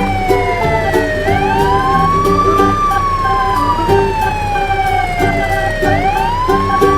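Siren sound effect that slowly wails down in pitch, then sweeps quickly back up, twice. It plays over background music with a steady beat.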